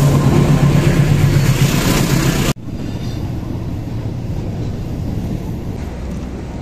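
Diesel locomotive passing close, its engine a deep steady drone over the noise of the train. About two and a half seconds in it cuts off abruptly, giving way to the steadier, quieter rumble of passenger coaches rolling past.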